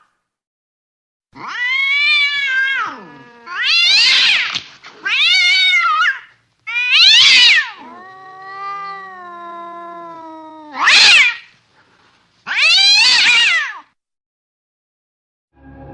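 Angry cat yowling in about seven separate caterwauls, each rising and then falling in pitch. In the middle comes one long, lower, drawn-out moan.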